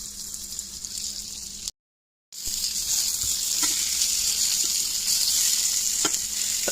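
Flour-coated pork chop frying in hot vegetable oil and butter, a steady sizzle. The sound cuts out completely for about half a second near two seconds in, then resumes louder, with a couple of faint taps.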